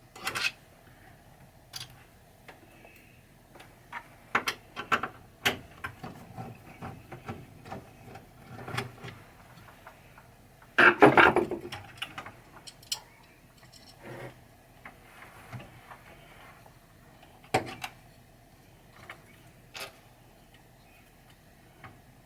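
Scattered clicks, taps and knocks of the Funhouse Rudy head assembly being lifted and set down while its level is checked, with a louder clattering clunk about halfway through and a single sharp knock a few seconds later.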